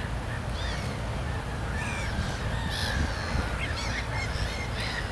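Birds calling: a run of short, repeated calls and chirps, several overlapping, over a steady low rumble.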